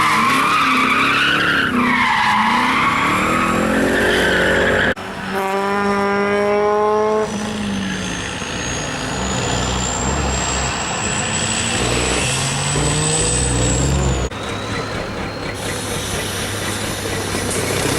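Trial truck engines revving and labouring, their pitch rising and falling, with a high whistle slowly climbing through the middle. The sound breaks off abruptly twice.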